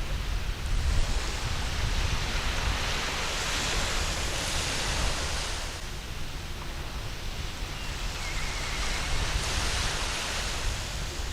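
Waves breaking and washing up a sandy beach in a steady rush, swelling twice, about halfway through and near the end.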